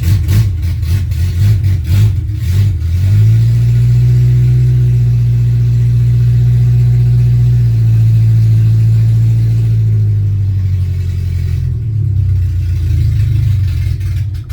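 Shay Thunderbird's Ford 2.3-litre four-cylinder on a cold start: it runs roughly for about the first three seconds, then settles into a steady high idle. Near the end it falters and stops abruptly, stalling with a choke that is sticking.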